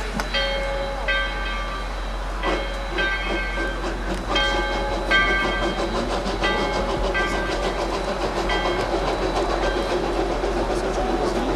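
Narrow-gauge steam train running, with a string of about eight short, high, ringing tones over the first nine seconds, then only the steady rumble of the train.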